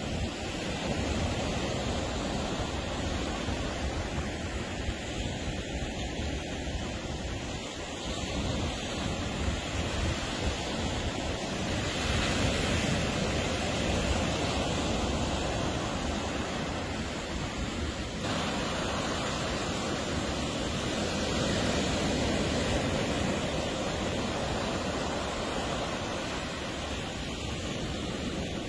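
Ocean surf washing onto a beach: a steady rush of breaking waves that swells and eases every few seconds, with some wind on the microphone.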